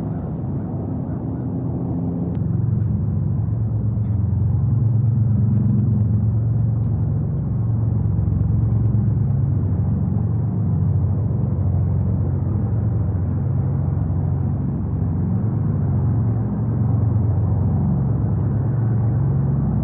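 Wind buffeting the outdoor camera microphone as a steady low rumble that wavers and swells, growing louder a few seconds in.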